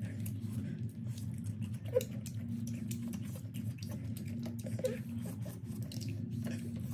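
Eating sounds: crispy fried chicken being handled and chewed, with scattered small crackles and clicks over a steady low hum.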